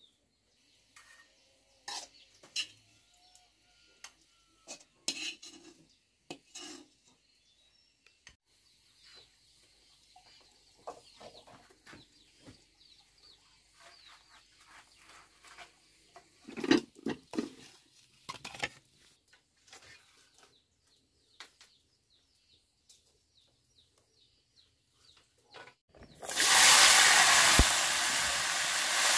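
Scattered clinks and knocks of kitchen utensils and dishes being handled. Near the end, a sudden loud sizzle starts as food goes into hot oil and begins frying.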